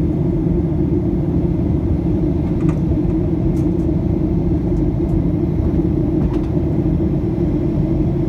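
Steady low cabin roar of a Boeing 737 airliner in cruise flight: engine and airflow noise heard from inside the cabin, with a few faint clicks.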